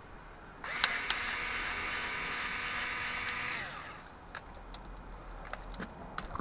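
A cordless power screwdriver's motor starts suddenly and runs steadily for about three seconds, then winds down with falling pitch while backing out small screws from a CD/DVD drive. A few small clicks of metal parts being handled follow.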